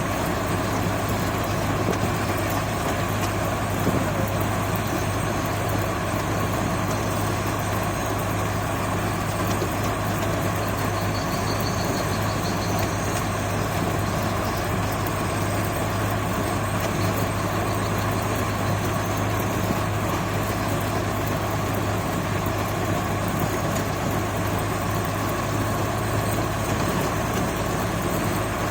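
Engine of a rice paddy machine running steadily, a constant low hum over an even mechanical noise.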